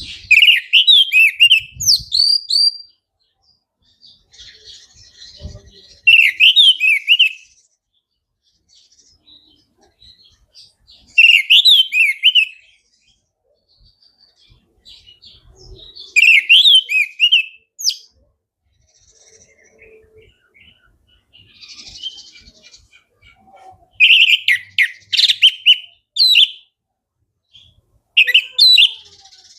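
Orange-headed thrush (anis merah) singing: loud rapid phrases of quick whistled and chattering notes, one every four to six seconds, with softer chirps in the gaps.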